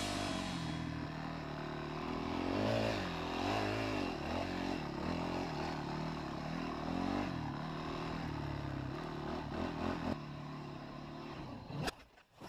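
Dirt bike engine running and being revved, its pitch rising and falling several times as the throttle is opened and closed; the sound cuts off suddenly near the end.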